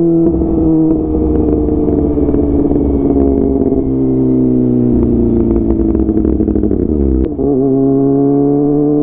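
Kawasaki ZX-25R's four-cylinder engine through a DX Generation GPR full-system aftermarket exhaust, its note falling slowly as the bike rolls along. A rough, crackly rumble runs under the note, and about seven seconds in the pitch dips briefly and picks up again.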